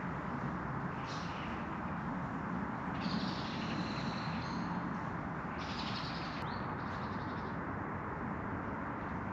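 Small birds chirping in several short bursts of high calls over a steady, even background hiss.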